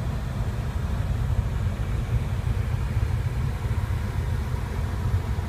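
Steady low rumble of the Porsche Panamera GTS's V8 idling, heard from inside the cabin.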